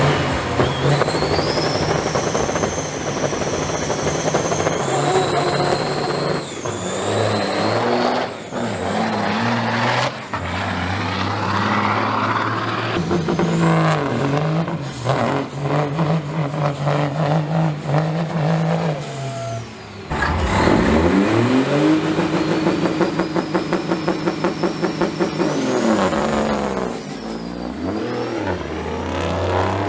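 Semi trucks' diesel engines running hard under acceleration, the pitch climbing and dropping back at each gear shift, with a rising turbo whistle. A second truck launches about twenty seconds in with a fast pulsing beat.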